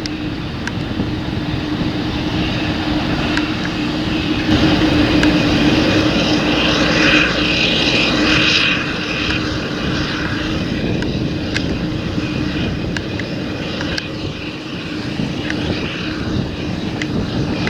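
Large John Deere tractor's diesel engine running steadily in the field, a continuous droning hum that grows louder for a few seconds in the middle.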